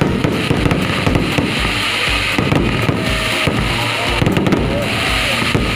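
Fireworks going off in quick succession: dense crackling and popping over repeated deep booms, with spells of hissing crackle about one and a half seconds in, about three seconds in, and about five seconds in.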